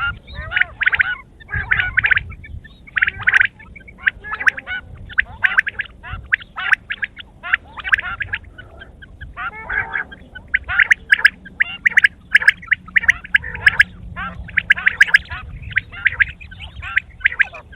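Quail calling: a fast, continuous run of short harsh calls, several a second, with only brief pauses.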